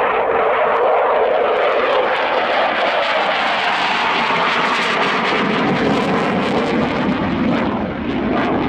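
Saab Gripen fighter's single Volvo RM12 turbofan, loud as the jet runs in on its display pass; about halfway through the sound slides lower in pitch as it goes by.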